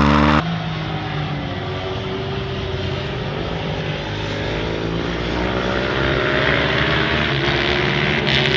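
Racing motorcycle engine under power, its pitch climbing slowly and steadily. The level drops suddenly about half a second in.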